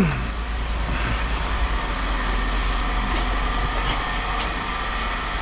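Steady low mechanical rumble with a faint high hum, like running machinery, ending in a sharp louder sound.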